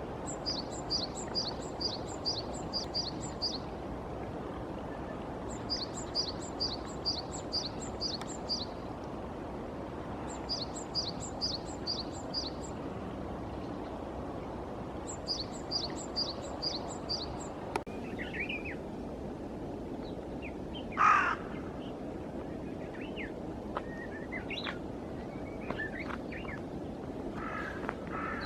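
Japanese tit singing its repeated two-note 'tsupi-tsupi' phrase, about seven notes per phrase, four phrases a few seconds apart. Later, other small birds chirp briefly and a crow caws once about three-quarters of the way through, over a steady background hiss.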